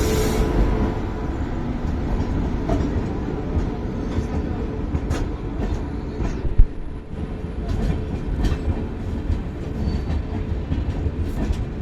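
Indian Railways passenger train, the 15636 Dwarka Express, rolling on the track: a steady rumble of wheels on rail with scattered clicks and clatter. One loud knock comes about six and a half seconds in.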